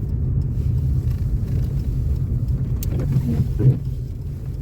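Car driving, heard from inside the cabin: a steady low engine and road rumble, with a brief louder bump about three and a half seconds in.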